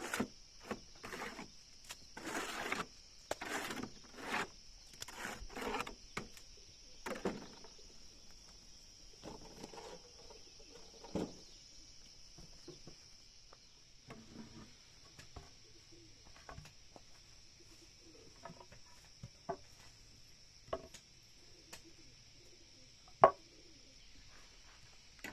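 Hand work on wood: a run of rhythmic rasping strokes, then scattered light taps and knocks with one sharp knock near the end. A steady high-pitched insect drone runs underneath.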